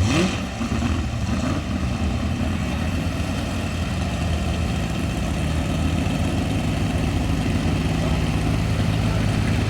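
Pulling truck's engine idling steadily, with a brief rev blip right at the start.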